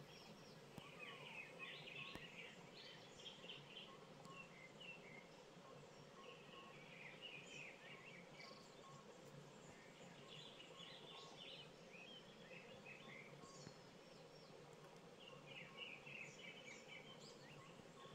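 Faint small birds twittering at dusk in four bursts of quick, high chirps a few seconds apart, over a steady low background hum.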